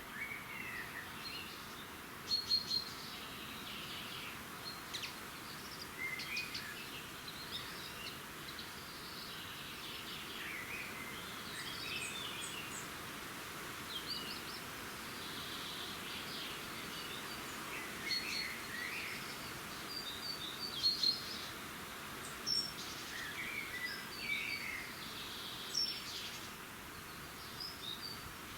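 Songbirds singing at dawn: many short chirps and trills from several birds throughout, over a steady background hiss.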